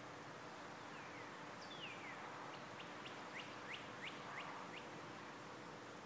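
Faint songbird song over steady background hiss: a couple of descending whistled slurs, then a quick run of about seven short sweeping notes, roughly three a second.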